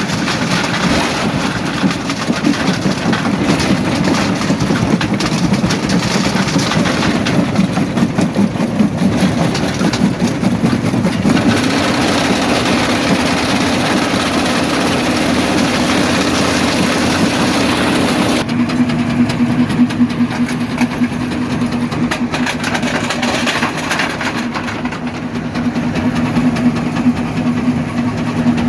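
Quarry jaw crusher running under load, rock knocking and cracking in its jaws over a continuous heavy machine rumble. About two-thirds through the sound changes abruptly to a steadier low hum with fewer high sounds.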